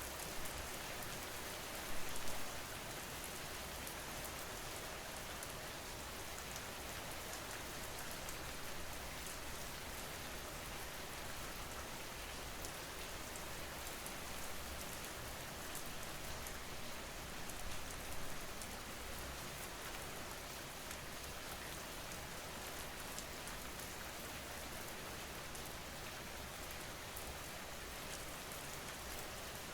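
Steady rain falling, an even hiss with individual drops ticking, and a couple of brief louder spatters about two seconds in and again near eighteen seconds.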